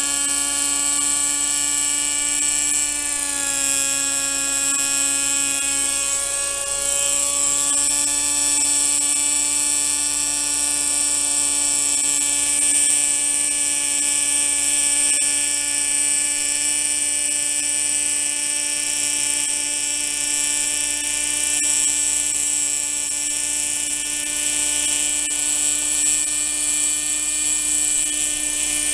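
O.S. 32 FH two-stroke glow engine of a Kalt radio-controlled helicopter running steadily with a high-pitched drone. Its pitch drops slightly about three seconds in and then holds.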